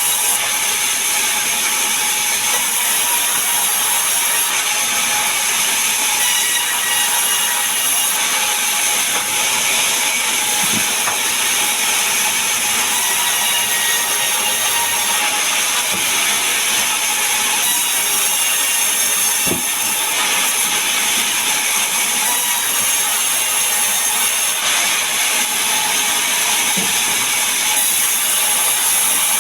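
Power saw running steadily while cutting mahogany and pine timber, a continuous high-pitched machine noise with no pauses, with a few faint knocks.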